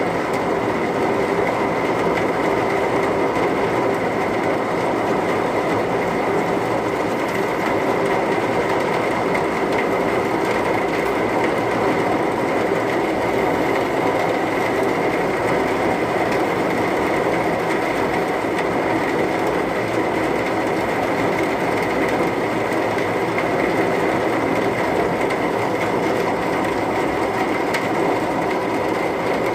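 Heavy rain pelting down on a car, a dense steady patter that holds without a break.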